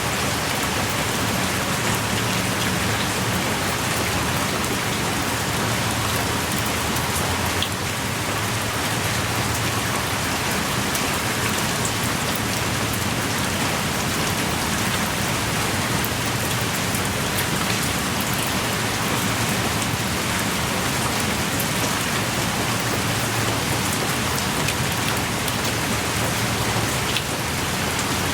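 Steady heavy rain pouring, with scattered drops ticking close by.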